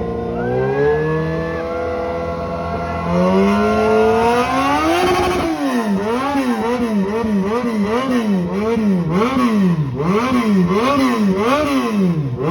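Kawasaki Z1000 inline-four motorcycle engine on its stock exhaust, revved while standing. It holds low revs for about three seconds and climbs steadily, then is blipped up and down in quick throttle blips about twice a second.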